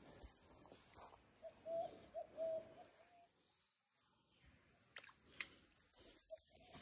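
A bird calling with a quick run of short, low, clear notes about a second and a half in, over a faint steady high hiss.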